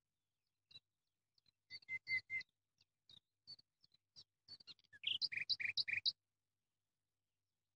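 A small bird chirping: scattered short, high chirps, with a quick run of three about two seconds in and a faster run of about six between five and six seconds in.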